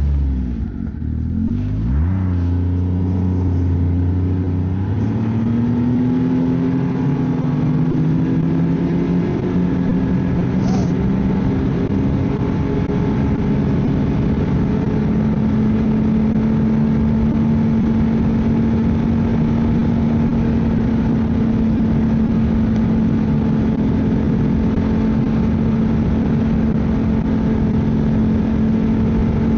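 Ski-Doo snowmobile engine under a rider, easing off briefly near the start, then accelerating for several seconds and settling into a steady cruising pitch.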